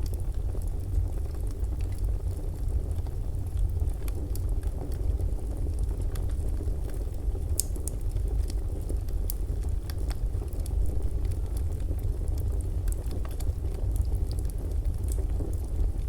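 Fireplace fire burning: a steady low rumble with scattered sharp crackles and pops, one of the brightest pops about seven and a half seconds in.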